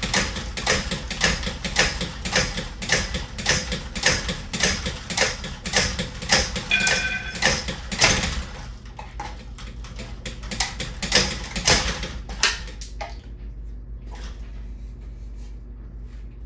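Ceiling fan parts being worked on: a fast, irregular run of knocks and clatter, several a second, with a brief high squeak about seven seconds in. The knocking thins out after about eight seconds and mostly stops after about thirteen.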